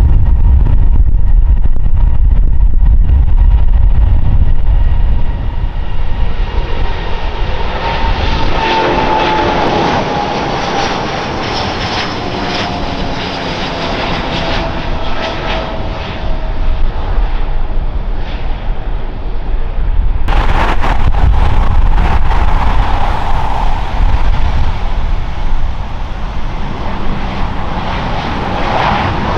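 Airliner engines passing at close range: a heavy rumble with a whine that falls steadily in pitch as the aircraft goes by. About twenty seconds in, the sound turns abruptly brighter and louder.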